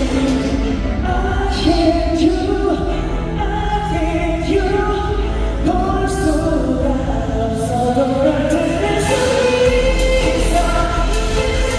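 Live pop song: a male voice singing a melody over an amplified backing track with a steady low bass, heard in a large hall.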